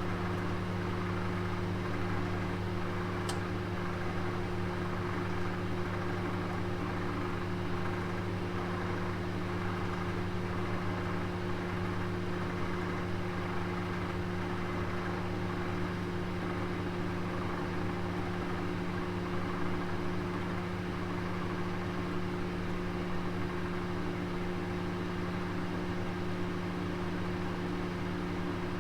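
Kitchen oven running while cooking: a steady low hum with an even hiss above it. One faint tick about three seconds in.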